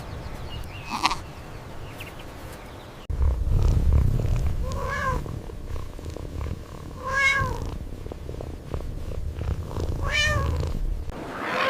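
An animal's calls: three short calls that rise and fall in pitch, over a low steady rumble that starts suddenly about three seconds in.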